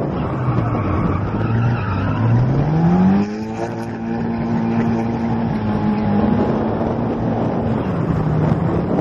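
Drift car's engine running under load: low revs at first, then revving up sharply about two to three seconds in. It holds high revs for several seconds and eases off near the end, over a heavy noisy rush heard from the car's roof.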